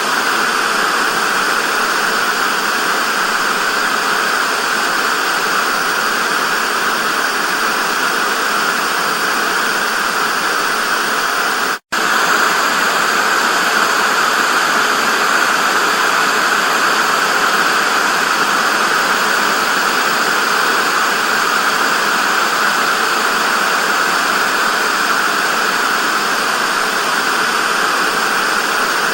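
Analog TV static: a steady hiss of white noise, strongest in the upper middle, with a very brief dropout to silence about twelve seconds in.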